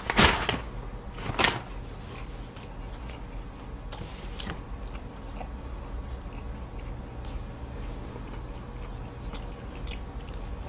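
Close-up eating sounds of a syrup-soaked, flaky butterfly pie (puff pastry): two loud crackly bites in the first second and a half, then quieter chewing with scattered small crunches.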